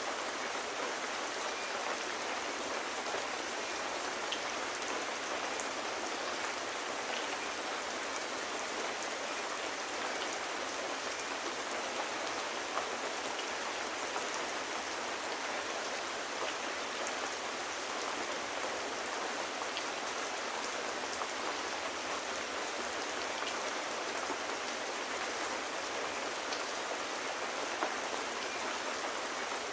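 Steady rain falling, an even patter with scattered faint drop ticks.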